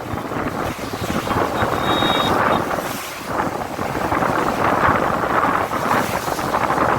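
Wind buffeting the microphone over steady traffic noise, surging and easing every second or two. A faint short high tone sounds briefly about two seconds in.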